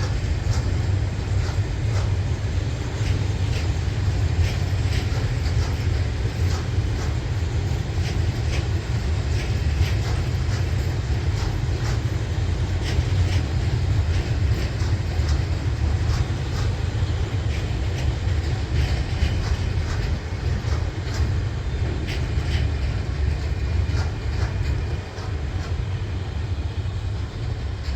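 Train running along the track: a steady low rumble with frequent short clicks and knocks from the wheels on the rails.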